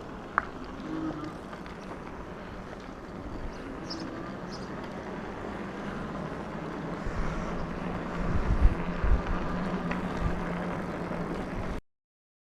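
Riding noise on a bicycle: wind rushing over the microphone, with a steady low hum joining about halfway through and low buffeting thumps later on. The sound cuts off abruptly near the end.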